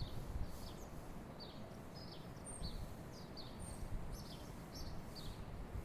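Small birds chirping repeatedly, short high chirps a few times a second with a couple of higher thin whistles, over a steady low background rumble.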